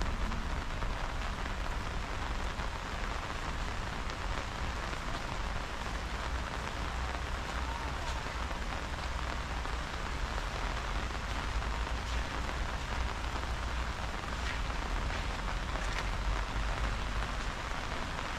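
Steady rain falling, an even hiss with the odd louder drop.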